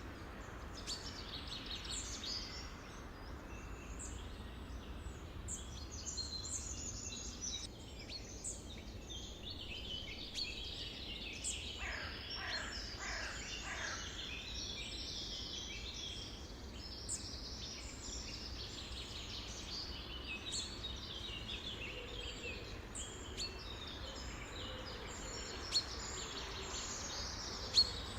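A chorus of several birds chirping and singing over one another, with a quick run of falling notes about twelve seconds in, over a steady low background rumble.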